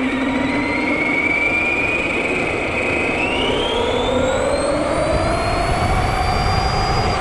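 Electric motor of a radio-controlled Granite 4x4 monster truck whining under throttle over a rough rolling noise, its pitch holding, then climbing steadily through the second half.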